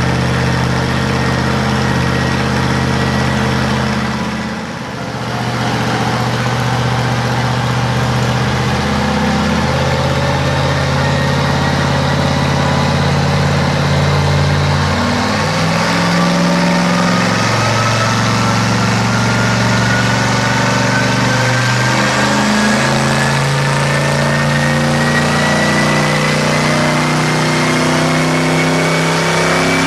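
Twin-turbo trike engine running, its pitch stepping up and down every few seconds, with a thin high whine that climbs slowly in pitch through the second half. The sound dips briefly about five seconds in.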